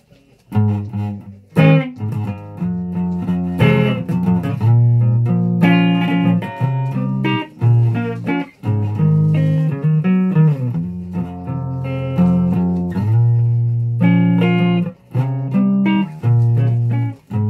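Guitar music: a run of plucked and strummed notes, mostly low, with sharp attacks and a few short breaks between phrases.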